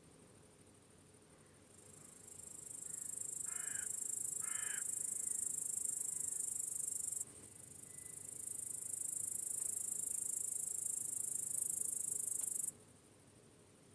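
Crickets trilling very high-pitched in two long bouts, each building up over a second or two and then cutting off suddenly, with quieter spells between. Two short harsh bird calls sound about four seconds in.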